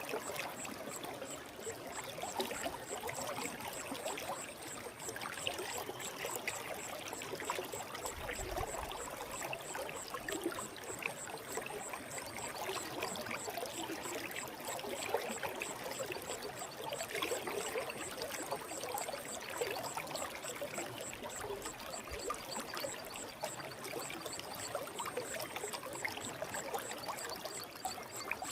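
Forest mountain stream flowing steadily, a continuous rush of water.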